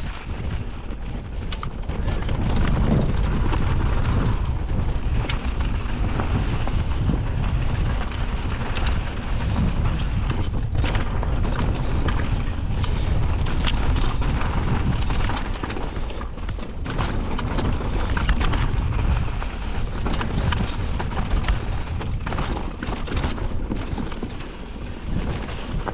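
Mountain bike clattering and rattling over a rough downhill trail, with many quick knocks from the bike and a steady low rumble of wind on the microphone.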